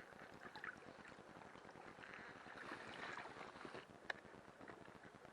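Faint rustling of gathered firewood being handled, with a few small sharp clicks and one distinct snap a little after four seconds in.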